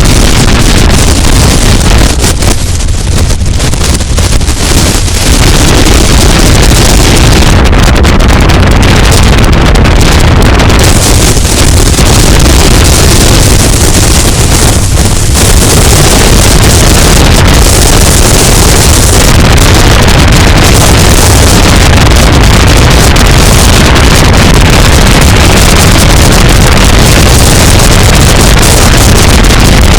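Wind rushing and buffeting over an exposed action camera on the front of a moving pickup truck, mixed with road and tyre noise. It is loud and steady, easing slightly for a few seconds near the start.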